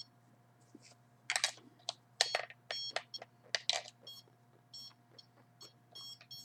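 Handheld RF signal detector giving short, high beeps in an irregular series, mostly in the second half, as it picks up pulsed signals. Several short hiss-like noises come in the middle, over a steady low hum.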